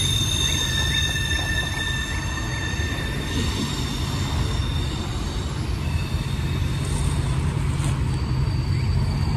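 A freight train's enclosed autorack cars rolling past: a steady low rumble of wheels on rail, with thin, high-pitched wheel squeal held over it.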